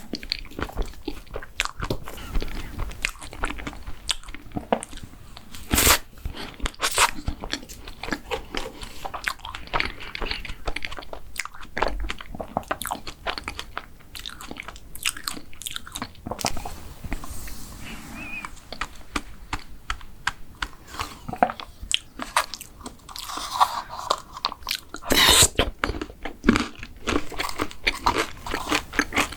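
A person biting and chewing crunchy food close to the microphone: many small sharp crunches and crackles, with wet chewing between them and busier spells of bites about a quarter of the way in and again near the end.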